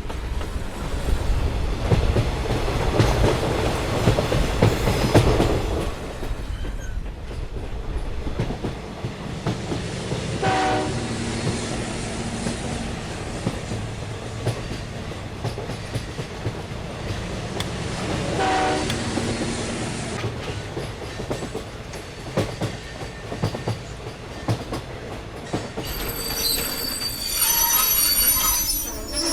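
Train running past with the steady rumble and clatter of its wheels on the rails. A horn sounds twice, briefly, about ten and eighteen seconds in. A high squeal comes near the end.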